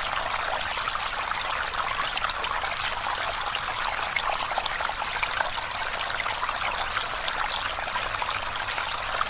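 River water flowing steadily over stones with a constant bright babble.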